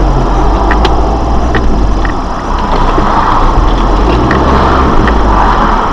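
Steady low engine and road rumble of a moving vehicle, with a few faint clicks.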